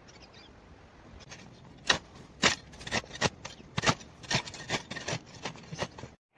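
About a dozen sharp, irregular knocks and scrapes of wood being worked by hand, roughly two a second, starting about a second and a half in and cutting off abruptly near the end.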